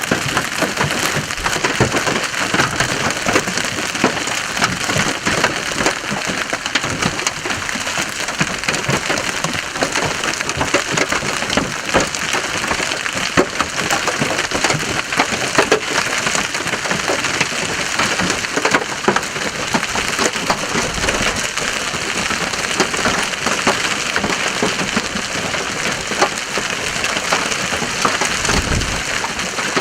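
Hail and heavy rain hitting a vehicle's body and glass: a steady, dense clatter of many small impacts without a break.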